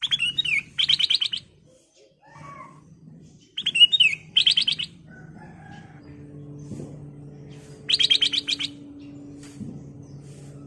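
Black-crested bulbul (kutilang emas) singing: three song phrases, each a quick slurred whistle followed by a fast run of rattling notes. A low steady hum runs underneath from about halfway through.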